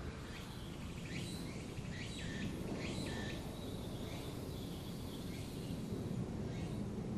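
Cicada singing: a series of repeated high, sweeping pulses over a steady shrill tone, strongest in the first half, over a low background rumble.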